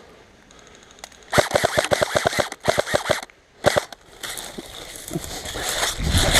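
Airsoft gun firing on full auto, a fast rattle of shots at about eight a second. A two-second burst starts just over a second in, a short burst follows, then more firing.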